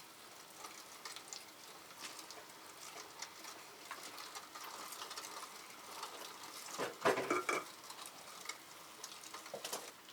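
Campfire cooking sounds: light crackling and scattered clicks, with a louder clatter about seven seconds in.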